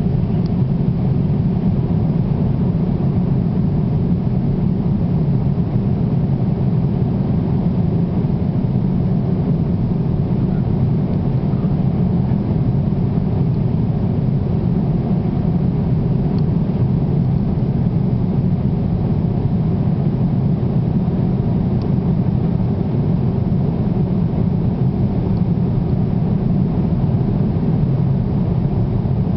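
Airplane noise: a steady, unchanging low drone.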